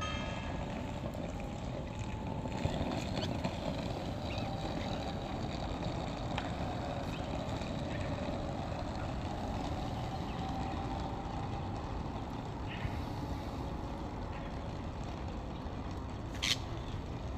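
Steady, even low rumble of background noise, engine- or traffic-like, with a short sharp high-pitched sound near the end.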